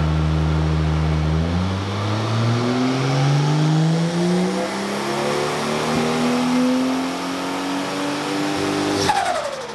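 Turbocharged RB30 inline-six in a Nissan 180SX making a wide-open-throttle dyno pull. It starts at a steady speed, then revs rise steadily for several seconds. Near the end the throttle shuts with a sharp crack, and the revs drop away with a quickly falling whine.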